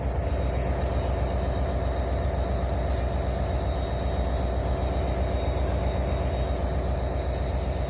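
An engine running steadily at constant speed: a low, even drone with a faint high whine over it, cut off abruptly at the end.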